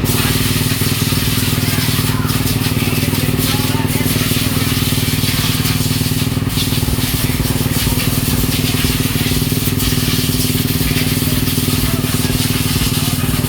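Motocross motorcycle engines running together in a steady, unbroken drone, with dense noise over it.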